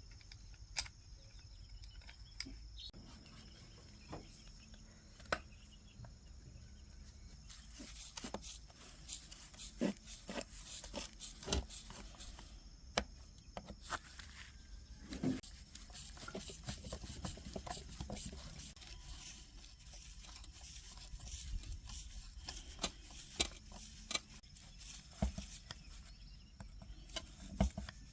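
Scattered light clicks, taps and scrapes of hand work with small parts and tools, over faint steady background noise.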